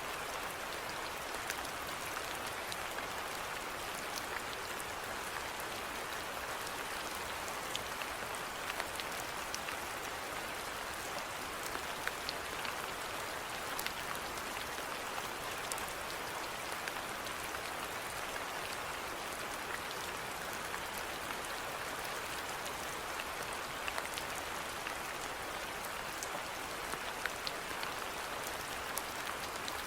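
Steady rainfall, an even hiss with many small drops pattering on a surface.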